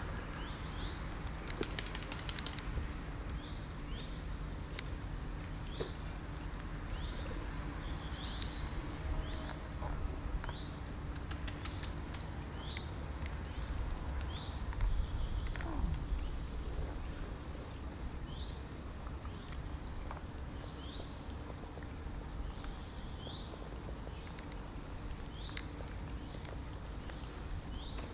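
A small songbird chirping over and over, one short high note with a falling tail about one to two times a second, over a low outdoor rumble.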